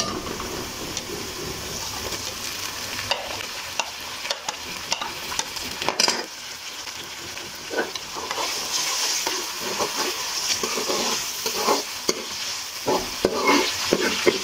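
Chopped onions and garlic sizzling in hot oil in a metal kadhai. A steel ladle stirs them, scraping and clicking against the pan at irregular moments over the steady sizzle.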